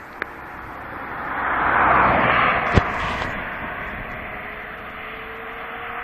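BMW S1000RR inline-four sportbike with a Bodis full exhaust passing at speed: the exhaust note swells to a peak about two seconds in, then fades away as the bike recedes. A single sharp click near the peak.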